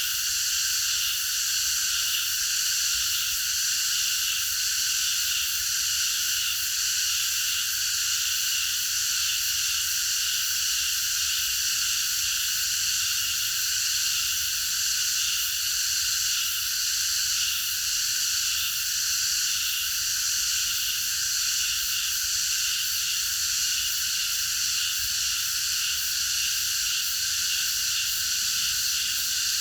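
A chorus of many cicadas singing together in one steady, unbroken high-pitched drone.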